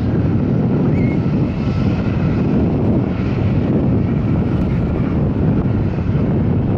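Jet airliner's engines running loud and steady, a deep rumble.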